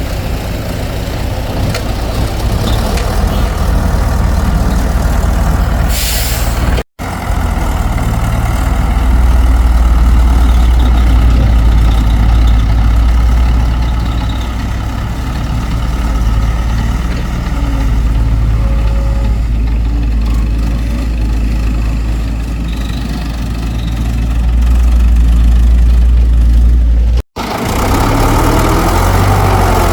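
Excavator's diesel engine running, its loudness swelling and easing as the machine works. The sound drops out for an instant twice, about a third of the way in and near the end.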